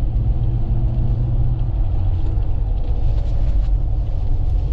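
Steady low in-cabin rumble of a Toyota Land Cruiser driving at speed, engine and road noise mixed with strong wind against the body.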